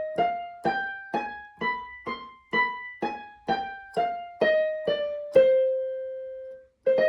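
Casio Casiotone CT-S300 keyboard's piano voice playing single notes in the high register, about two a second, climbing up a scale and then back down, with the lowest note held at the bottom and one more struck near the end. The player finds this register a bit artificial and pitch-shifted.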